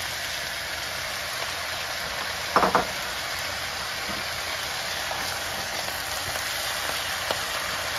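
Stir-fry of vegetables and sliced grouse sizzling steadily in a wok over high heat, with Napa cabbage leaves going in. A short louder sound comes about two and a half seconds in.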